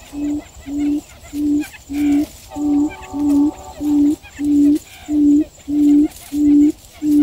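Quail giving a long series of low hooting notes, evenly spaced at about one and a half a second and slowly growing louder.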